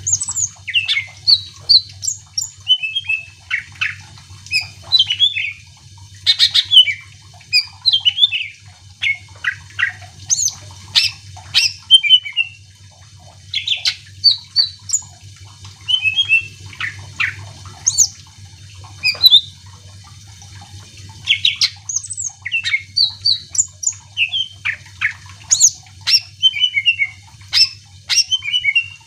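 Greater green leafbird (cucak ijo) singing in full voice: a fast, varied run of sharp chirps, whistles and squeaky notes in short phrases with brief pauses between them. A faint low hum runs underneath.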